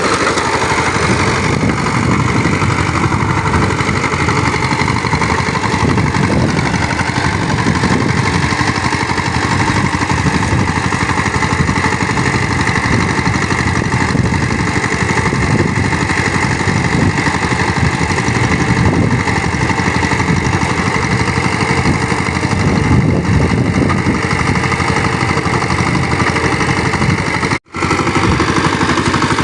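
Power tiller's engine running steadily under load while ploughing, with a momentary break in the sound near the end.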